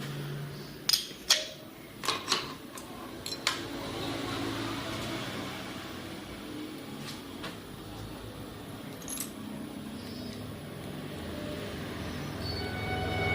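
Metal tools and engine parts clinking, with a quick run of sharp clinks in the first few seconds and one more about nine seconds in. Near the end a pitched whine with many overtones rises in level.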